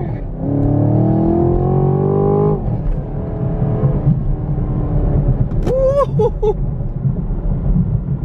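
2020 Chevrolet Camaro 2SS's 6.2-litre V8 under hard acceleration, heard from inside the cabin. The revs climb and drop at a gear change right at the start, then climb again for about two and a half seconds before the engine eases off to a lower, steadier sound.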